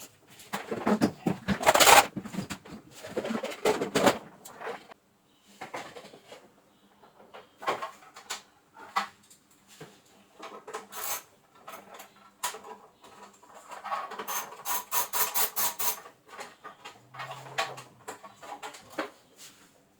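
Handling noises on a workbench: rubbing, clattering and scattered clicks, loudest about two seconds in, with a quick run of clicks from about fourteen to sixteen seconds in.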